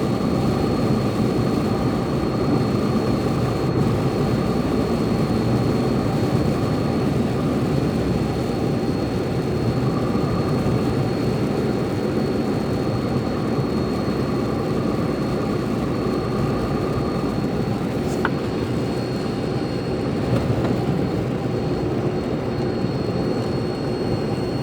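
A truck's engine and road noise run steadily while the truck drives downhill, with a thin high whine throughout and a single click about 18 seconds in.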